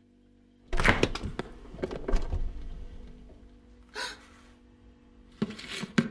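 A sudden thunk with clattering knocks after it about a second in, fading away, then a shorter knock and more clattering near the end.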